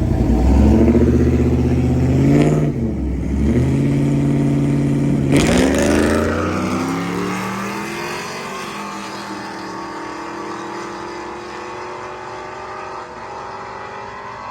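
Car engine at full throttle down a drag strip, climbing in pitch and dropping back at two gear shifts about two and a half and five and a half seconds in, then pulling on in a higher gear as it fades into the distance.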